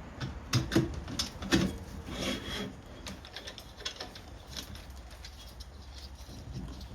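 Metal rack parts and bolts being handled and fitted by hand: a few sharp knocks and clicks in the first two seconds, a short scrape, then lighter scattered clicks.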